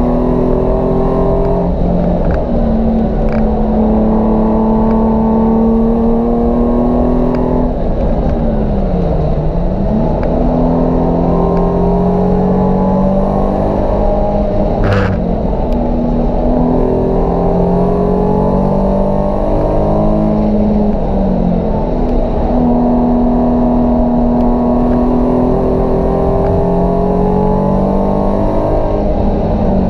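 Nissan 350Z's 3.5-litre V6 engine under hard driving: its note repeatedly climbs through the revs and drops back at each gearshift. About nine seconds in it dips low and climbs again as the car slows and picks up. One sharp knock comes about fifteen seconds in.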